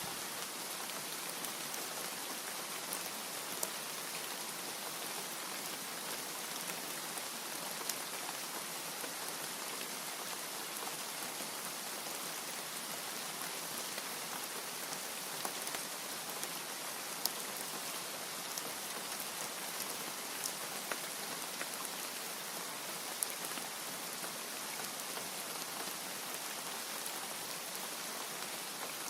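Steady rain falling, with scattered sharp drop hits.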